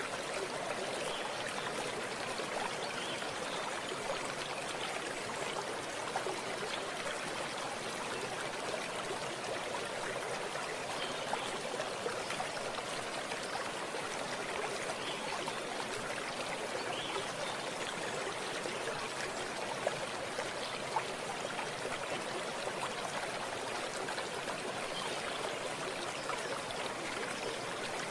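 Stream of running water flowing and trickling steadily, with small splashes and gurgles through it.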